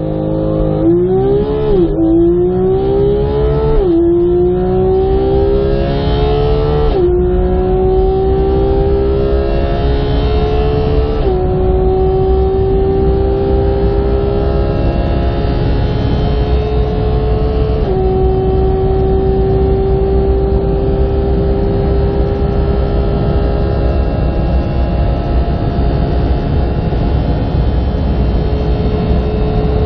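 Car engine at full throttle accelerating hard up through the gears: the engine note climbs and drops back with each quick upshift, six shifts in all, the gaps lengthening with each gear. After the last shift, about two-thirds of the way through, it holds a steady, slowly rising note at high speed, with a constant road and wind rumble underneath.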